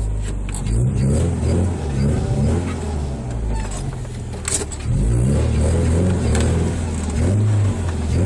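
1991 Honda Accord's four-cylinder engine running and road noise heard from inside the cabin while driving. The engine note shifts up and down as the car accelerates, getting louder about five seconds in.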